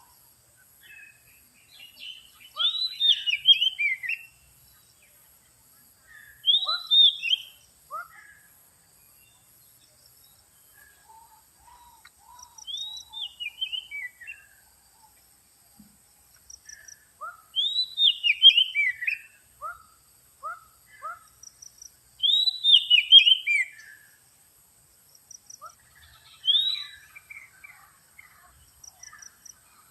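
Magpie-robin (kacer) song used as a trapping lure call: short phrases of quick, falling whistled notes, repeated every four to five seconds.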